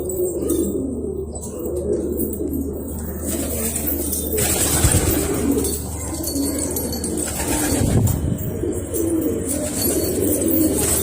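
Domestic pigeons cooing, several low calls overlapping. A steady hiss joins about four seconds in.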